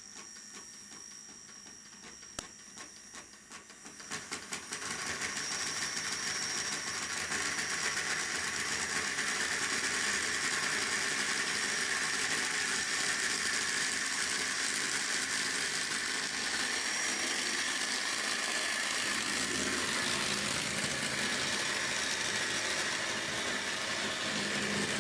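HO-scale model train locomotive's small electric motor running with a steady whirr and a thin high whine, with light clicking in the first few seconds. About four seconds in it grows louder and then holds steady.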